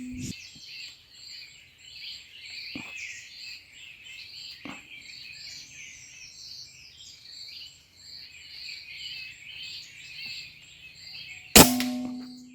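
A single air rifle shot about a second before the end: a sharp crack followed by a brief metallic ring. Throughout, birds and a rhythmic high chirping carry on in the tree, with a couple of faint clicks a few seconds in.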